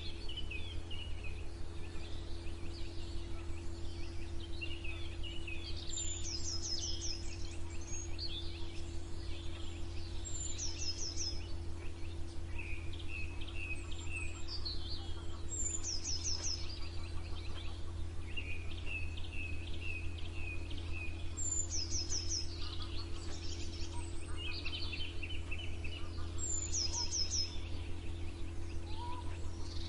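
Morning chorus of several songbirds singing, with many short chirps and trills. One bird repeats a short, high, falling trill about every five seconds. A steady low hum runs underneath.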